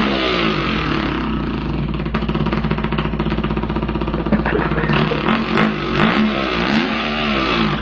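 A man imitating a dirt bike engine with his voice: one continuous buzzing drone whose pitch rises and falls again and again, like an engine revving up and dropping back.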